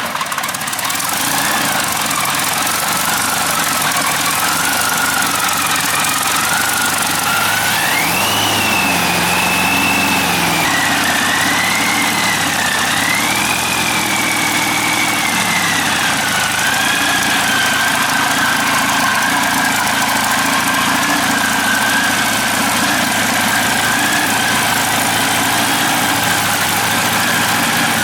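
Air-cooled Ranger V12 aircraft engine running just after start-up, with a whine that follows its speed. The speed rises about eight seconds in, wavers, then settles to a steady idle from about sixteen seconds.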